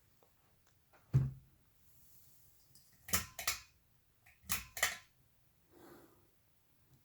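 Sears CEC (GE vent) ceiling fan running: a faint low hum with sharp clicks over it, one with a low knock about a second in, then clicks in pairs roughly every one and a half seconds.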